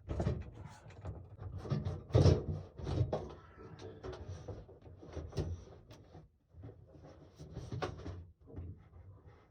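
Irregular knocks, clunks and rattling as a built-in RV microwave is worked loose and pulled from its cabinet, with the loudest bump about two seconds in.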